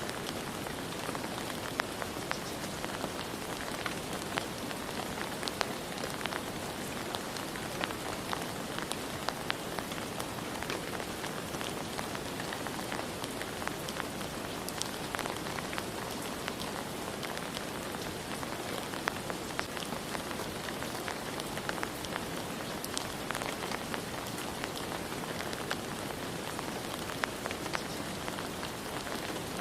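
Steady rain falling, with many individual drops ticking sharply on a hard surface over a continuous hiss.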